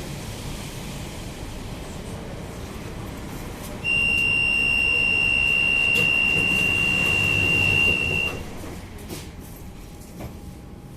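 Tram door-closing warning signal: one steady high-pitched beep held about four and a half seconds, over the low hum of the tram. A few clicks follow just after it stops.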